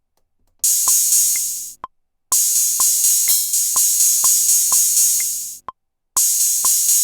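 A drum-machine beat from a Maschine+ groovebox, bright and hissy with hi-hat or tambourine-like hits and sharp ticks about twice a second, under a few held low notes. It starts, cuts off abruptly, and is restarted twice, as if the pattern is being started and stopped.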